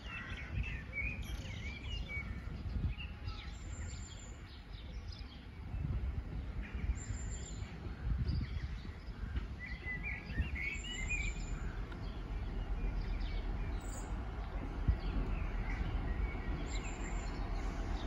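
Birds chirping over a low rumble that grows louder through the second half as a GWR Class 158 diesel multiple unit draws slowly up to the level crossing.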